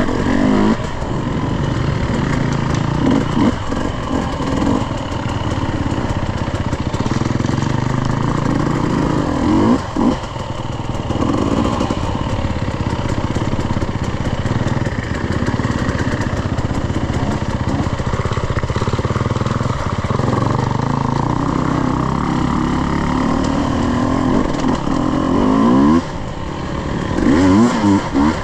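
Dirt bike engine being ridden, revving up and down with the throttle, with quick rev blips about ten seconds in and again near the end.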